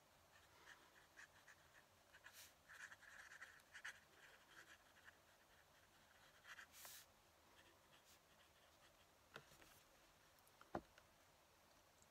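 Fountain pen nib scratching faintly across paper in short strokes, then a single sharp knock near the end.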